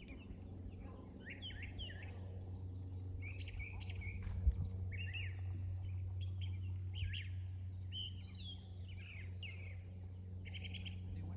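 Several songbirds chirping and calling in short, quick notes and sweeps, with a high buzzy trill lasting a couple of seconds near the middle. A low steady hum runs underneath.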